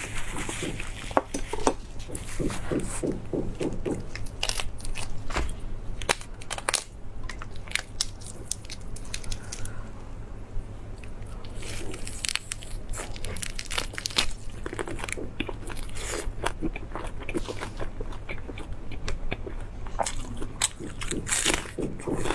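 Close-miked eating: bites and steady chewing with crunchy, wet mouth sounds, the chewing coming in quick rhythmic spells.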